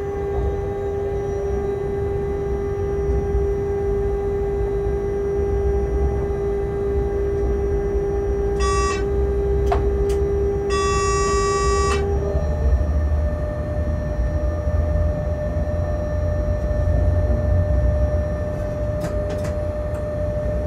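Cab running noise of a freight locomotive on the move: a steady low rumble with a constant whine that steps up to a higher pitch about twelve seconds in. Near the middle, two short high-pitched tone signals sound, a brief one and then one lasting about a second.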